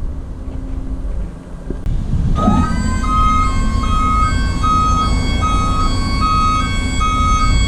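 Ford Transit tipper's electric-hydraulic tipping pump starting up: about two seconds in, a whine rises quickly and settles to a steady pitch as the body begins to raise. A repeating warning beep pulses alongside it, over the low rumble of the idling engine.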